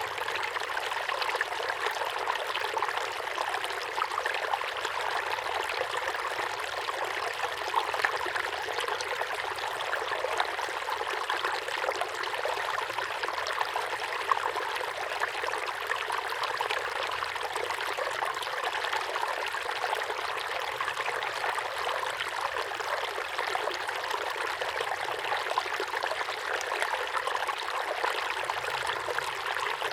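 Small waterfall pouring steadily into a pond: continuous splashing and trickling water with no change.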